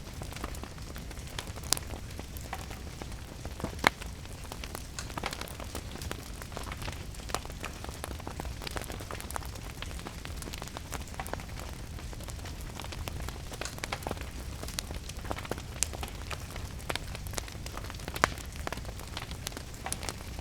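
Wood fire crackling with frequent sharp pops, a loud one about four seconds in and another near the end, over a steady hiss of rain and a low rumble.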